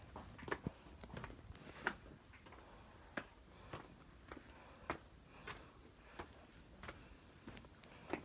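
Summer night insects trilling steadily on one high note, with a slight fast pulse, alongside footsteps clicking about once a second.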